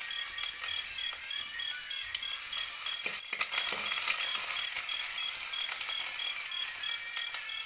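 Chopped shallots frying in hot coconut oil in a clay pot: a steady sizzle with scattered small crackles, and a brief scrape of the stirring spoon about three seconds in.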